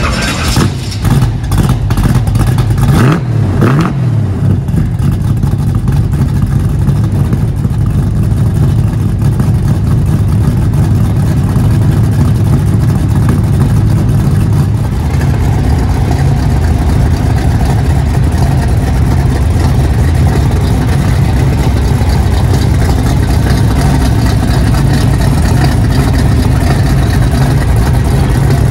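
A V8 muscle car engine revs up briefly about three seconds in, then runs on with a steady, low engine note that rises slightly about halfway through.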